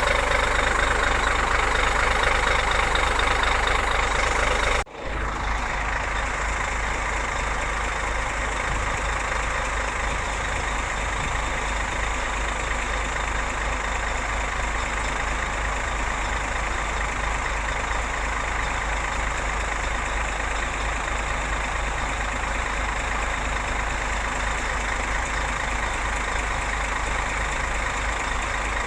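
Scania R580 truck's V8 diesel engine running steadily. About five seconds in the sound cuts off abruptly and gives way to a quieter, steady engine drone with a deep low rumble.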